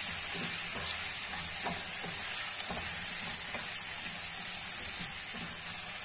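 Spiced potato cubes frying in oil in a kadai, sizzling steadily, while a spatula stirs through them with a scraping stroke about once a second.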